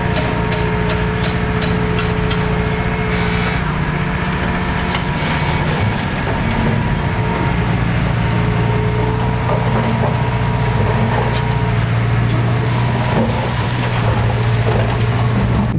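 Small bulldozer's diesel engine running steadily, with scattered clanks and knocks. The engine note shifts lower about halfway through.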